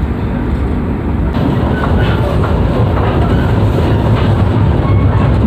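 Steady low rumble of a moving passenger train heard from inside an executive-class coach, with a few faint clicks from the wheels over the rails.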